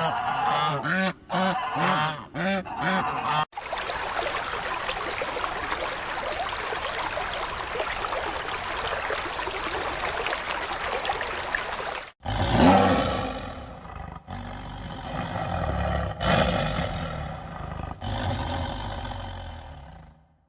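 Farmyard waterfowl calling in a quick series of short calls for about three seconds, then an abrupt change to a steady rushing noise. About twelve seconds in, a loud sudden sound comes in, followed by uneven noise that fades and rises again.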